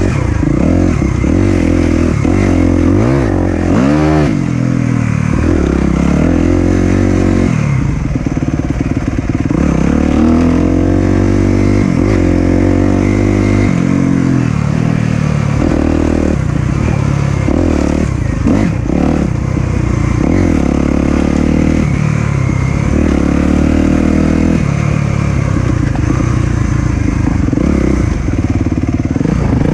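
Single-cylinder four-stroke dirt bike engine under way, the throttle opened and closed again and again so the engine note keeps rising and falling, with a quick sharp rev about four seconds in.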